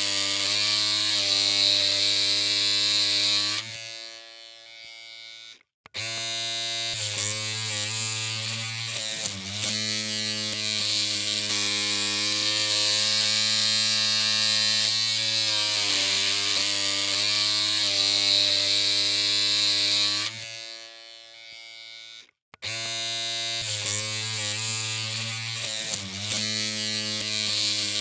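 Electric hair clippers humming steadily with a buzzy hiss. Twice the hum fades away and stops for a moment, about four seconds in and again about twenty seconds in, then starts again.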